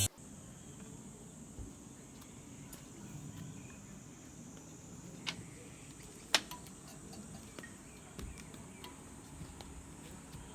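Insects chirring steadily in a high, thin tone, with two short sharp clicks around the middle.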